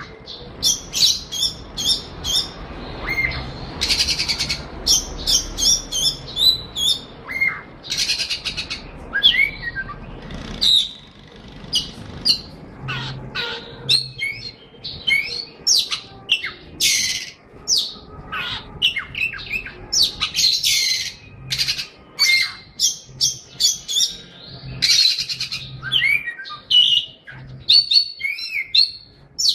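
A songbird singing a long, varied song: rapid chirps, whistled notes that glide up and down, and harsh scratchy buzzes, with hardly a pause.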